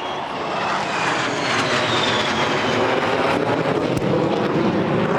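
Aircraft passing overhead: engine noise swelling louder, with a high whine that slides down in pitch as it goes by.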